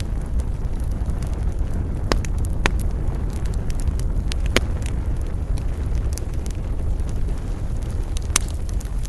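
Wood fire burning in a fireplace: a steady low rumble with frequent small crackles and a few sharper pops, the loudest about four and a half seconds in and near the end.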